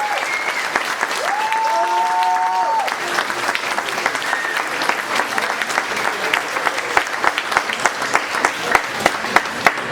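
Audience applauding, with a couple of held cheering calls in the first few seconds. In the second half the applause thins, and separate sharp claps stand out.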